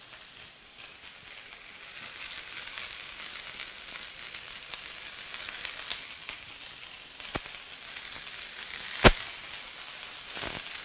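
Salmon pieces sizzling in hot oil in a frying pan, with sliced mushrooms frying in a second pan; the sizzle grows after about two seconds as more fish goes in. A few sharp clicks or pops, the loudest about nine seconds in.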